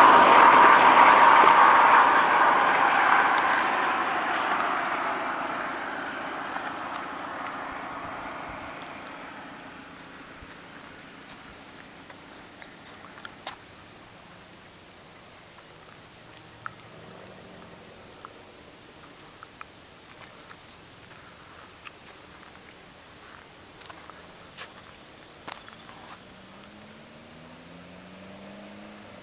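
Dodge SRT-4's turbocharged four-cylinder with a 3-inch catted aftermarket exhaust, heard driving away, its sound fading out over about ten seconds. Insects keep chirping with a fast, even, high-pitched pulse.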